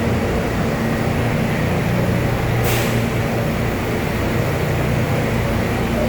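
Subway train rumbling with a steady low hum. A short hiss of air is heard about two and a half seconds in.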